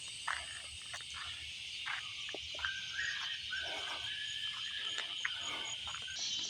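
Evening chorus of crickets and other insects, a steady high-pitched drone, with frogs giving short, scattered calls over it.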